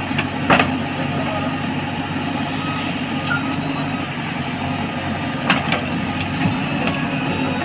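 Heavy diesel engine running steadily under load, with a couple of sharp knocks, about half a second in and again about five and a half seconds in.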